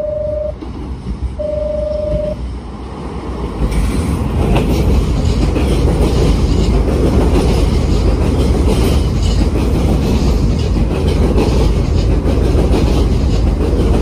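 Two short beeps of the same pitch, then a Nankai commuter train running along the platform, a loud steady rumble with wheels clattering on the rails that builds from about four seconds in.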